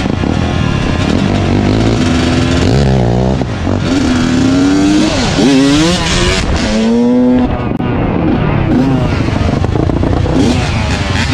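Dirt bike engines revving, the pitch climbing and dropping again and again as the riders blip the throttle and pull away.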